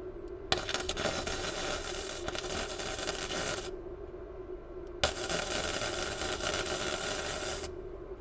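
MIG welder arcing on steel chassis metal in two crackling runs of about three seconds each, each starting and stopping abruptly as the trigger is pulled and released.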